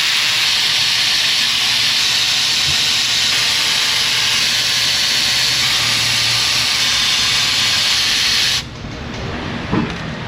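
Aerosol penetrating oil sprayed in one long, steady hiss onto the valve cover spark plug tube seals to loosen the stuck covers, cutting off suddenly near the end.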